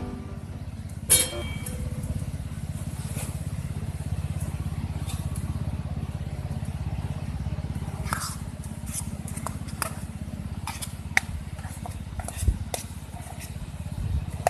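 Engine idling steadily with a low, even pulse, with scattered light clicks and one sharp knock about a second in.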